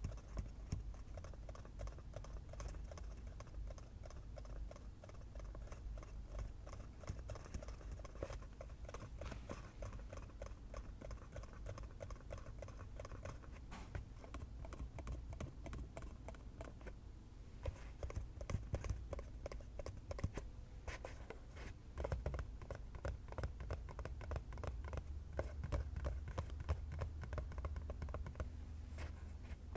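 Fingers tapping rapidly and continuously on an object, a dense stream of light clicks, growing louder about two-thirds of the way through.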